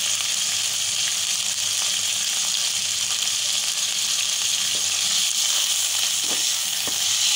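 Chicken cubes and chopped garlic sizzling in hot oil in a pan: a steady frying hiss, with a few faint clicks in the second half.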